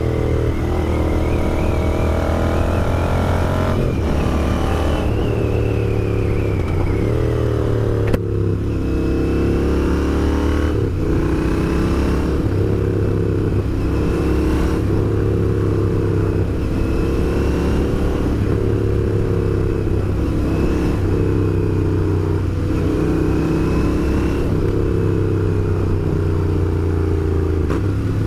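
Royal Enfield Interceptor 650's 648 cc parallel-twin engine running on the move, its note rising and falling repeatedly with the throttle. A single sharp click comes about eight seconds in.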